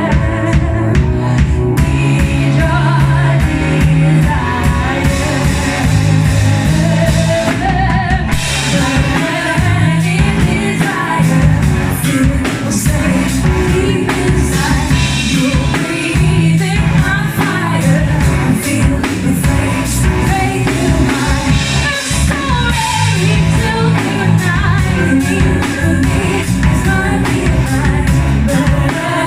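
Live band playing a pop-rock song, a singer's lead vocal over a steady drum beat and guitar.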